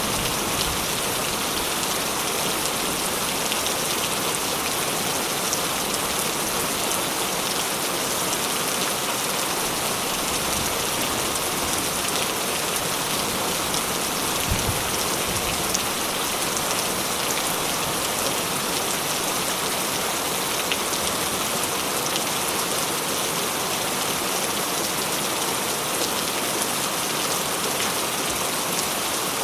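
Steady rain falling and striking surfaces, an even hiss with scattered drop ticks. One brief low thud near the middle.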